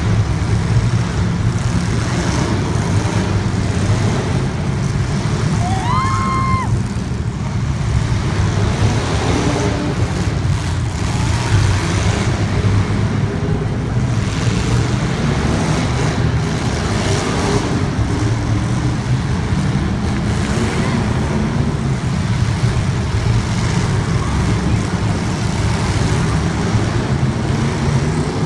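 Racing engines running steadily as the cars circle the track in the feature race, a continuous low drone. A short, high, whistle-like chirp cuts through about six seconds in.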